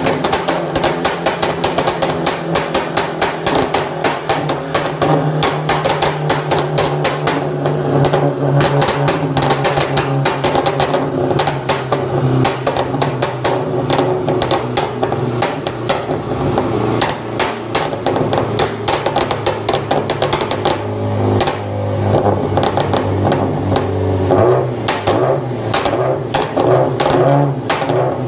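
Modified car exhaust crackling and popping rapidly and irregularly over a steady engine note.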